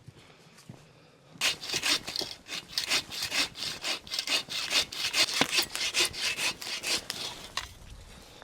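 Hand saw cutting through wood in quick back-and-forth strokes, about three a second, starting about a second and a half in and stopping near the end.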